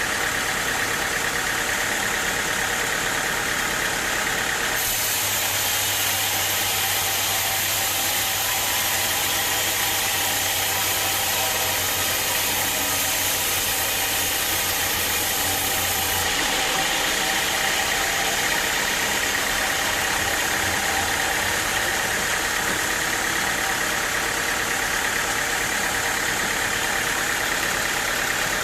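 Sawmill machinery running steadily: an engine-like drone with a high hiss. The sound shifts abruptly about five seconds in and again about sixteen seconds in.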